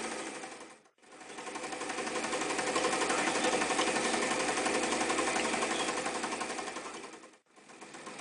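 Elna Special type 31C electric sewing machine stitching at a fast, even rhythm. It winds down and stops about a second in, starts again and speeds back up to a steady run, then slows and stops near the end before starting once more.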